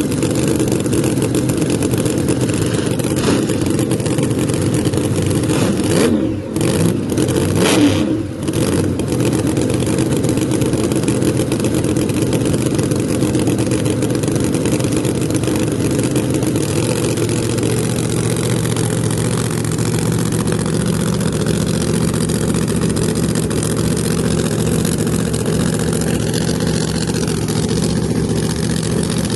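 Drag car engine idling, blipped in a few quick revs about six to eight seconds in, then settling back to a steady idle.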